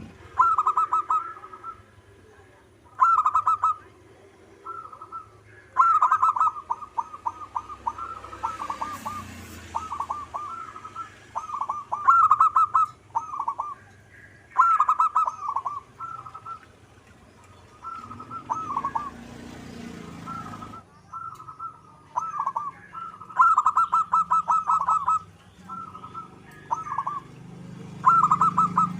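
Zebra dove (perkutut) singing: phrase after phrase of quick, closely strung cooing notes, each phrase lasting half a second to about two seconds, with short pauses between.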